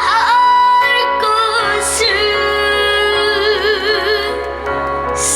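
A trot song performed live: a singer's voice over music, holding long notes with vibrato. The longest note starts about two seconds in.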